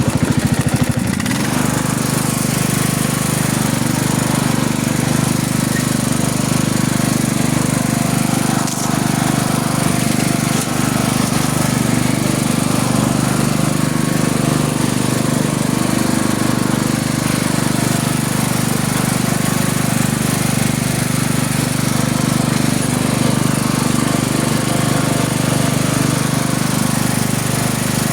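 A vehicle engine running steadily at a constant speed throughout.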